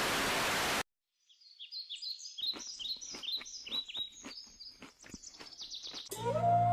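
A burst of white-noise static cuts off abruptly, followed by a moment of silence. Then come rapid bird chirps, a string of quick falling notes. Near the end, a loud steady tone with a low hum begins.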